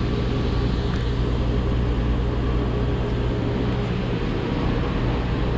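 Newly installed NTI boilers and their circulator pumps running in a boiler room: a steady mechanical hum with a strong low drone.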